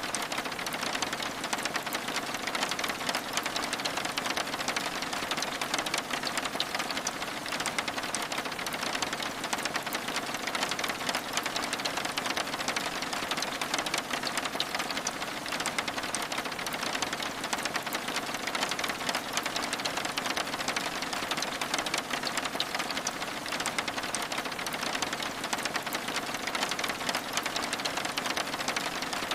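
Steady rain pattering on window glass: an even hiss thick with small, rapid drop ticks.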